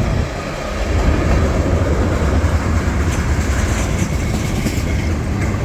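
Freight train rolling past close by: a steady, loud rumble of railcars, with sharp wheel clicks over the rails from about three seconds in.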